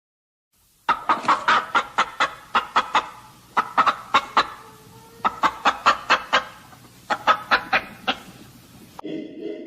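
Chicken clucking in four quick runs of short, sharp clucks, about five or six a second. A short, different pitched call follows near the end.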